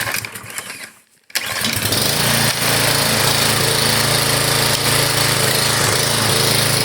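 Small Briggs & Stratton gas engine being pull-started: it catches suddenly about a second and a half in and then runs steadily.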